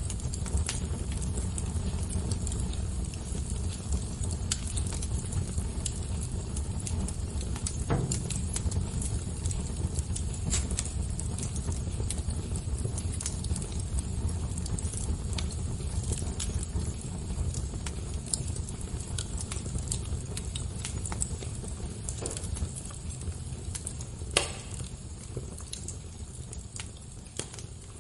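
Fire crackling: scattered small pops over a low steady rumble, with one sharper pop about 24 seconds in.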